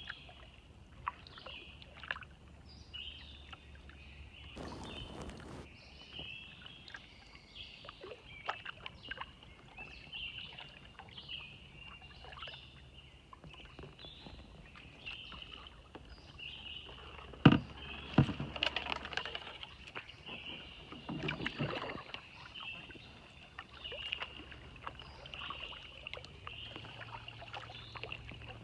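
Kayak paddle strokes dipping and splashing in floodwater, with a few louder splashes past the middle, over a steady background of high chirping.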